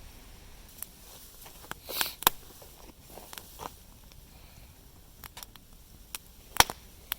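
Light clicks and knocks of camp cookware and utensils being handled, with a short rustle about two seconds in and the sharpest click near the end.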